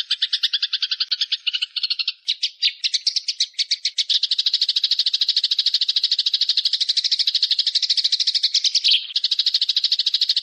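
Recorded bird call: a rapid, evenly pulsed chattering trill, many notes a second. It changes pattern about two seconds in, then runs on as a steadier, faster trill with a brief break near the end.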